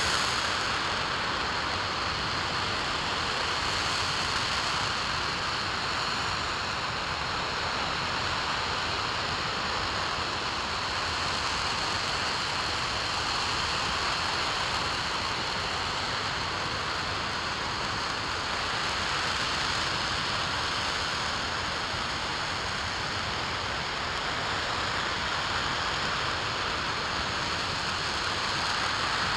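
RS-25 liquid-hydrogen/liquid-oxygen rocket engine firing continuously on a test stand: a steady, even rushing noise that holds level throughout, with no change in power.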